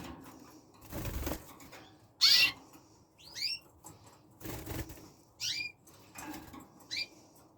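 Red factor canaries fluttering and calling: short bursts of wing flapping, the loudest about two seconds in, between short chirped call notes every second or two.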